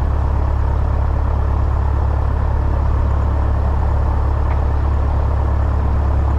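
Piper Cherokee 180's newly installed four-cylinder Lycoming engine and propeller idling steadily, a deep, even drone, on its second day of engine break-in.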